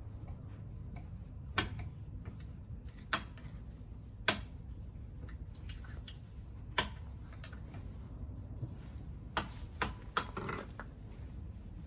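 Scattered light clicks and knocks at irregular intervals, with a small cluster near the end, over a steady low hum: hand tools and small engine parts being handled during scooter engine disassembly.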